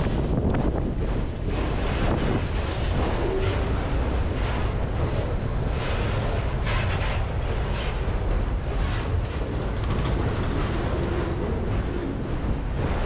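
Freight train of autorack cars rolling past close by: a steady rumble and clatter of steel wheels on the rails.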